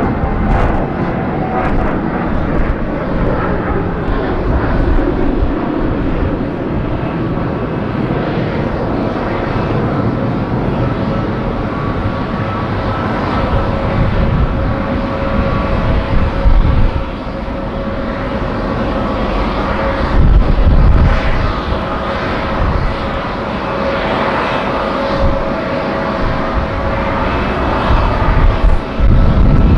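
Jet airliner engines running with a steady whine over a low rumble that swells several times.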